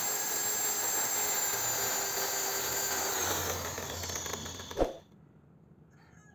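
Electric drill running steadily, high-pitched, spinning a bar inside a steel drill-chuck sleeve held in a vise. It ends just under five seconds in with a short knock, then near silence with a faint click or two of small metal parts.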